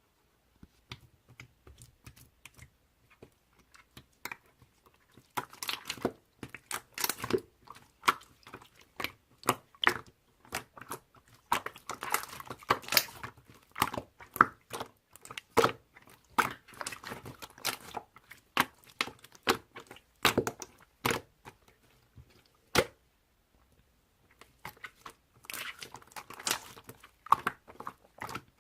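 Clear slime with rose-shaped charms mixed in, being squeezed, stretched and poked by hand: a dense, irregular run of sticky pops and clicks, with a short lull about four-fifths of the way through.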